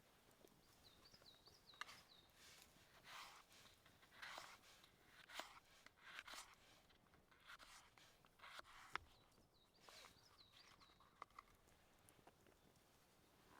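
Quiet outdoor scene: a small bird chirps in two short series, among soft rustling swishes and scattered sharp clicks.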